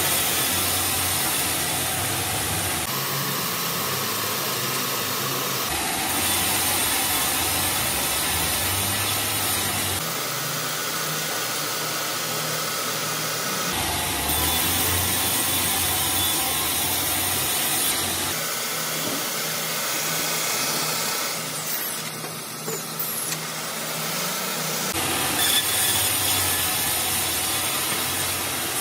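Power saw machinery running and cutting through a log into square timber, a steady mechanical drone with hiss. The sound shifts abruptly every few seconds.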